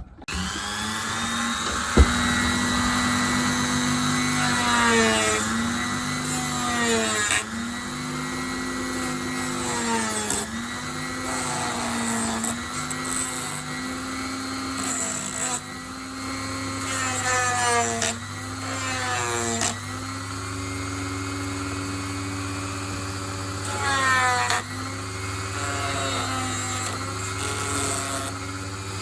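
Small high-speed power tool running, its pitch dipping and recovering every second or two as it cuts into the plastic webbing of Peco O gauge track. A sharp click about two seconds in.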